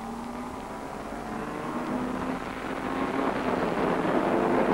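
Racing Mini's four-cylinder engine running at high revs, growing louder as the car approaches and loudest near the end as it passes close by.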